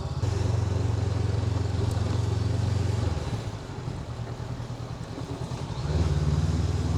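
Honda NX500's parallel-twin engine running at low speed, easing off about three seconds in and picking up again near the end.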